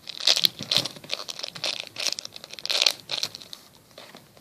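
Plastic packaging crinkling and rustling as it is handled, in a run of short crackly bursts that die away near the end.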